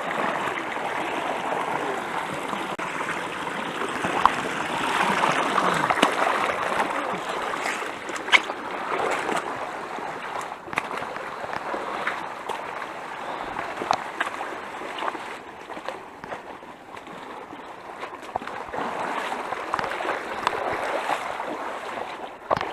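A rocky stream rushing steadily over stones, with occasional sharp knocks and splashes from people wading and stepping over the rocks.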